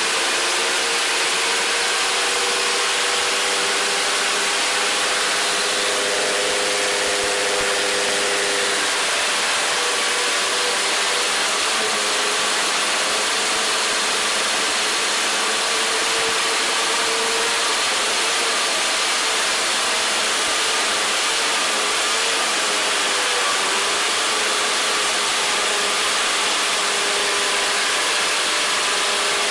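Several two-stroke vintage snowmobile engines running together, their pitches wavering up and down, over a steady hiss.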